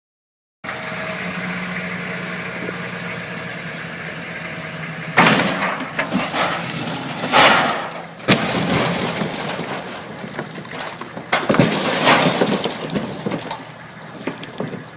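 A boat's engine running steadily, then a series of loud crashes starting about five seconds in, one of them longer and noisier than the rest.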